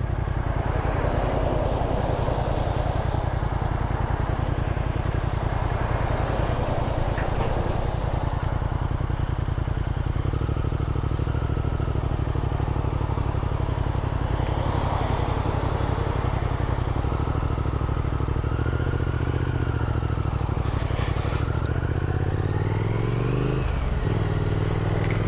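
Motorcycle engine running under way with wind noise over the microphone; near the end the revs climb and then drop at a gear change.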